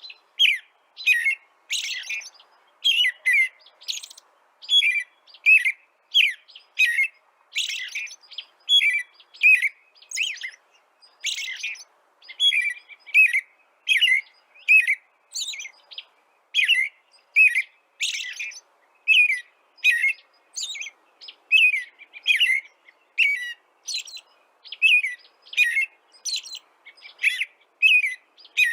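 A small bird chirping over and over in short, sharp, high chirps at about two a second.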